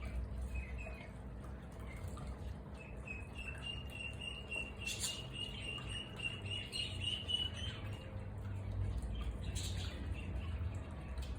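Small aviary birds chirping, with a quick run of short, evenly repeated high chirps in the middle.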